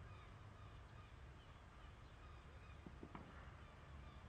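Quiet outdoor ambience: a low steady rumble with faint, short, falling chirps of distant birds scattered throughout.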